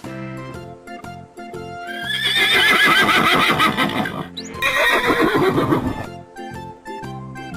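A horse whinnying: one long, quavering call starting about two seconds in that falls in pitch over roughly four seconds. Background music with steady notes plays throughout.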